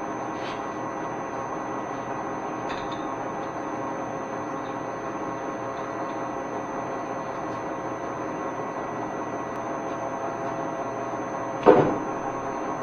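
Steady hum with a few faint ticks, then one sharp knock with a brief ringing decay near the end.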